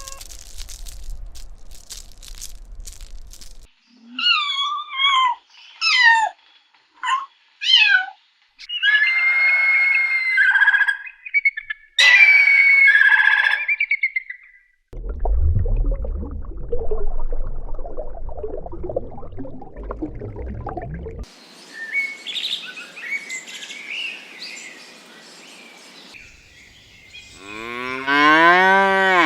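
A run of different animal calls one after another: a set of short warbling calls repeated several times, two longer wavering calls, then noisy stretches, and near the end one long, pitched call.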